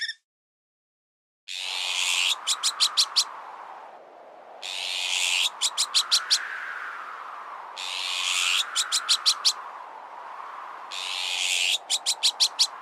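Bird alarm calls from a bird-repellent recording, starting after a short silence and repeating about every three seconds: a harsh call followed by five quick clicks, over a whistle that rises and falls.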